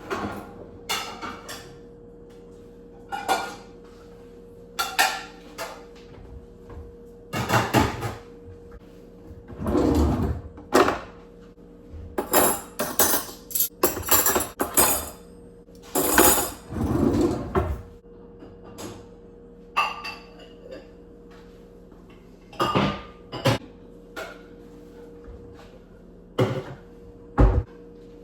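Dishes and utensils clattering and clinking as they are washed and handled, in irregular bursts with short pauses between. A steady low hum runs underneath.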